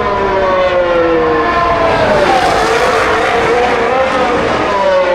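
Formula 1 cars' turbocharged V6 engines running at high revs as they pass on the circuit, each engine note sliding down in pitch as the car goes by. A fresh pass sweeps in around the middle and another near the end.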